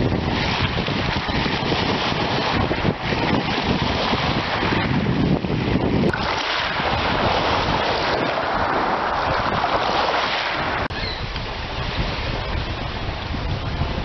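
Wind buffeting the microphone: a loud, steady rushing noise with a heavy low rumble, changing abruptly about six and eleven seconds in.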